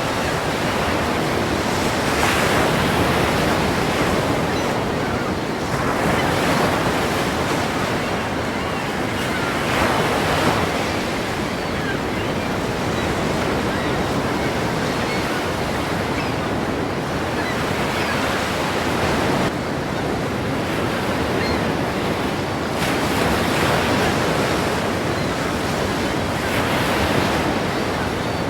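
Ocean waves breaking: a continuous rush of surf that swells every few seconds as each wave comes in.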